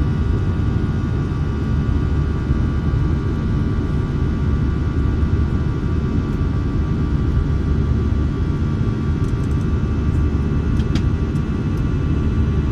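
Jet airliner cabin noise in flight: a steady low rumble of the engines and airflow, with a faint whine and a few light ticks about ten seconds in.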